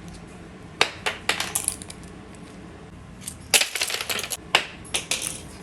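Irregular sharp clicks and small clattering knocks of small hard objects striking a hard surface, in quick clusters with short pauses between.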